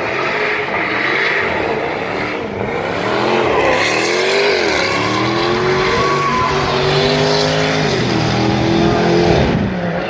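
Stunt vehicle's engine revving hard. The revs rise and fall, dip once, then hold high for several seconds and drop away near the end.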